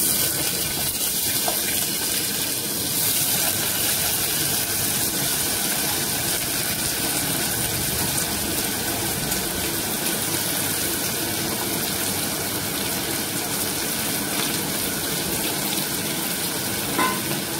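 Diced raw potatoes sizzling steadily in hot oil in an aluminium pressure cooker.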